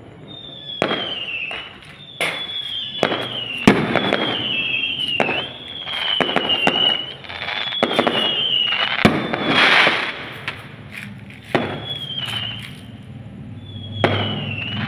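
New Year fireworks going off in quick succession: a string of high whistles, each sliding slightly down in pitch, amid sharp bangs and crackling.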